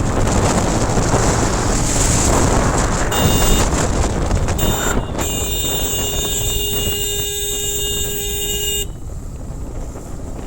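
A vehicle horn sounds briefly about three seconds in, then is held as one steady blast for about four seconds before cutting off. Behind it runs the continuous rush of wind on the microphone and road noise from a moving motorcycle.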